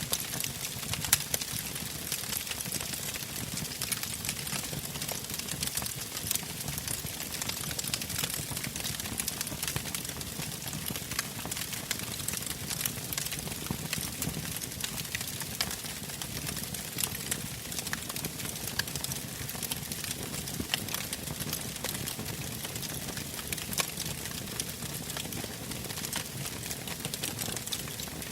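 Wood campfire burning, with continual crackling and frequent sharp pops over a soft hiss; one pop about a second in stands out as the loudest.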